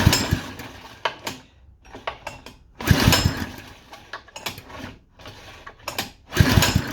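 Honda GX110 single-cylinder engine being pull-started on its recoil starter three times, about three seconds apart, turning over with good compression but not catching.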